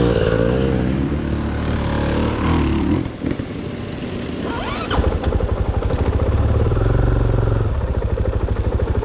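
Dirt bike engine revving up and down under throttle for about three seconds, then easing off. From about five seconds in it runs at low revs with a steady, even pulse.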